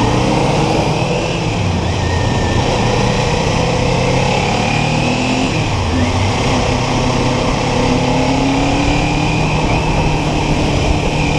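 Kawasaki Ninja 400's parallel-twin engine running steadily while cruising, its pitch drifting gently up and down, with wind rushing over the microphone.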